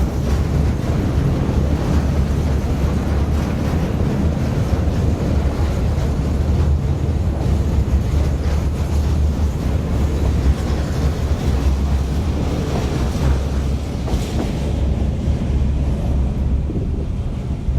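Train on a coal-mine railway rolling past with a loud, steady low rumble and no distinct exhaust beats; the higher part of the sound fades out near the end.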